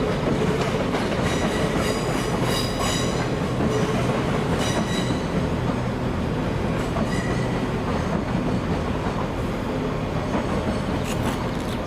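TransPennine Express Nova 1 (class 802) train departing and running past, with a continuous rumble of wheels on rail. Short high-pitched wheel squeals come and go over the first five seconds and again near the end.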